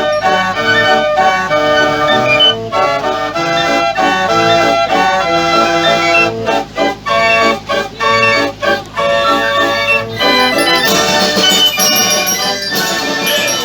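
Fairground organ playing a tune in short, quick notes.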